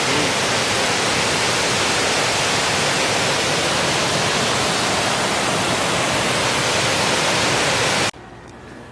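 Waterfall rushing close by, a loud, steady wash of falling water that cuts off abruptly about eight seconds in, leaving a much quieter background with a faint low hum.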